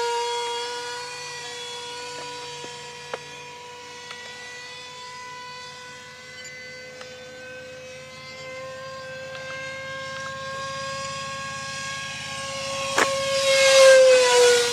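64 mm electric ducted-fan impeller of an RC jet whining steadily in flight. It grows louder as the model passes close about 13 to 14 s in, then drops in pitch as it goes by. A short sharp click comes just before the pass.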